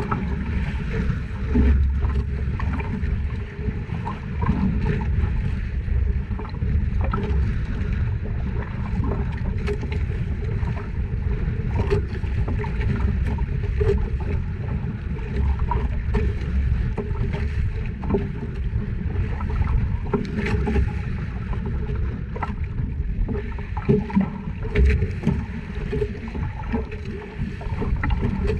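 Small fishing boat at sea, its motor running steadily under water and wind noise, with scattered small knocks.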